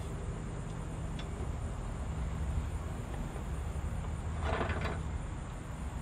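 Steady low rumble of distant road traffic, with a faint steady high chirring of insects. A brief rustling burst comes about four and a half seconds in.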